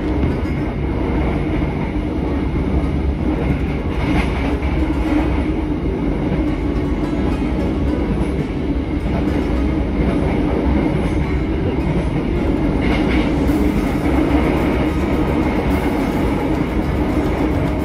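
Passenger train running, heard from inside the carriage: a steady rolling noise of wheels on the rails.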